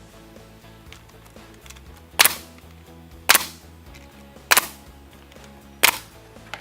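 Nail gun firing four single shots about a second apart, driving nails into an LP SmartSide vertical siding panel at 6-inch spacing, over steady background music.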